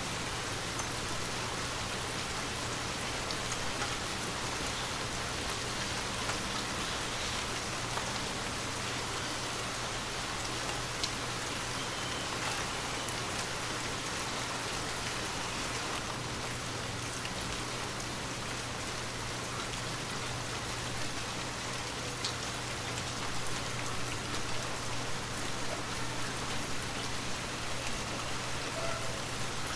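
Steady rain falling, with scattered individual drops ticking, over a low steady hum.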